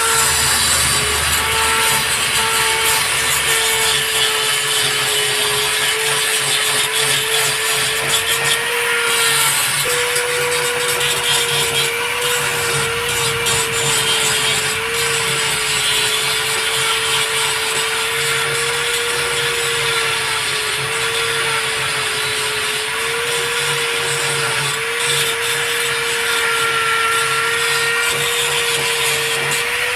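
Power tool running continuously: a steady whine that wavers slightly in pitch over a rough hiss.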